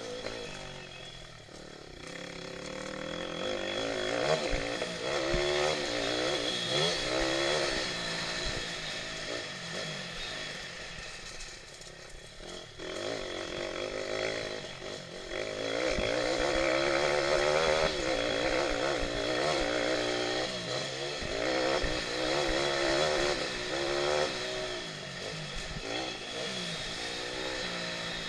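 Pit bike engines revving hard, the pitch climbing and dropping again and again through acceleration and gear changes. The engine note dips around 2 s and 12 s and is loudest around 16 to 18 s.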